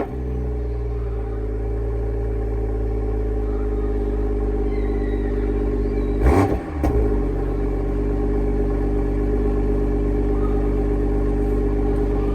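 Toyota GR Supra (A90) engine and exhaust at a steady idle after a sudden onset at the very start, with one short rev blip about six seconds in.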